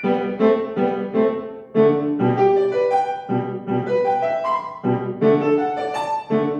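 Solo piano playing a classical study: a melody over chords and bass notes, struck at a steady moderate pace of about two to three attacks a second.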